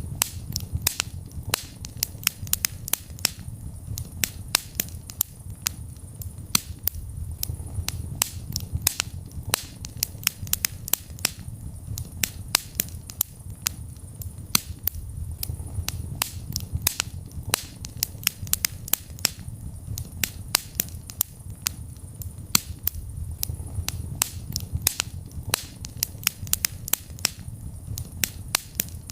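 Wood fire crackling in a fireplace: frequent irregular sharp pops and snaps over a low, steady rumble of burning.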